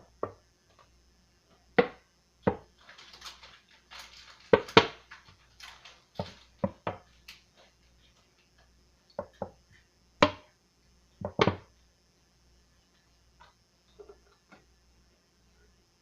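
Irregular knocks and clatter of objects being handled, about a dozen separate sharp hits with a short rustle about three to five seconds in, and quiet stretches between.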